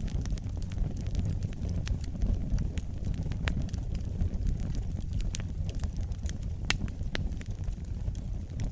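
Wood fire in a fireplace burning with a low steady rumble and frequent irregular crackles and pops, one sharper pop near the end.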